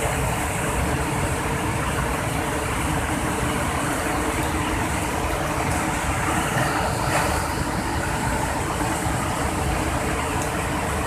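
Rain-swollen waterfall in flood: a loud, steady rush of falling water.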